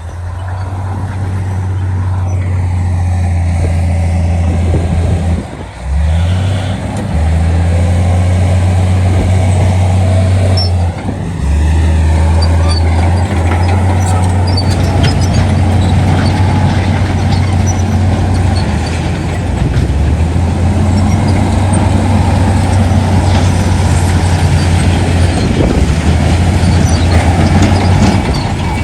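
Heavy diesel earthmoving machinery running loudly and steadily, with the engine note dropping briefly about five and a half seconds in and again around eleven seconds.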